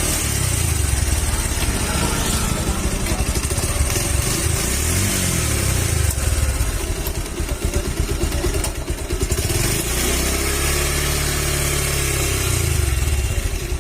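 Bajaj Pulsar 150's single-cylinder engine running, with a brief rev about five seconds in, then idling steadily. The engine is making the bad noise that the mechanic later traces to a broken spring in the balancer, which puts the balancer out of time.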